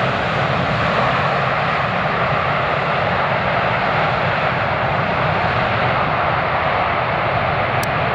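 Airliner engines running, a loud steady rushing noise that holds level throughout.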